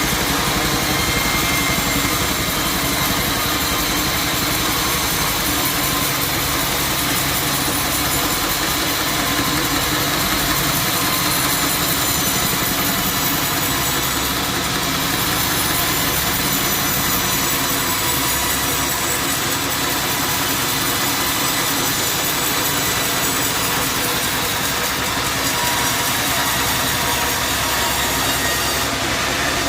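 Sawmill running steadily, its engine and saw blade going as it cuts through wood.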